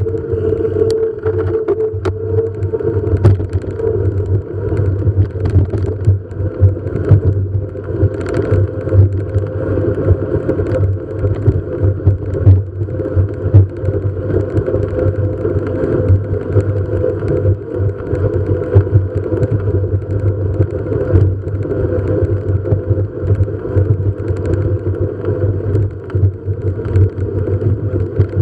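Steady running hum of a moving vehicle, with a constant low drone and a higher whine whose loudness keeps fluctuating.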